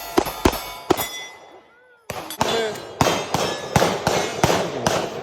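Rapid gunfire on a shooting range, several shots in the first second, a brief lull, then a faster run of shots from about two seconds in, with steel targets ringing as they are hit.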